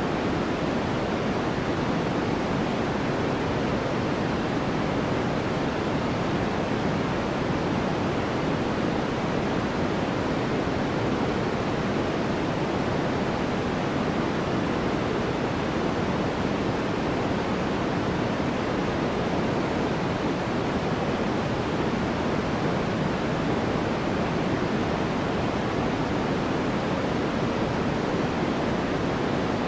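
Steady sleep noise: an even, unchanging rushing hiss, heavier in the low range than in the highs, with no rhythm or breaks.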